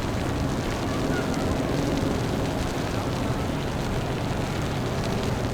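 Steady city street noise: traffic running with a background murmur of voices.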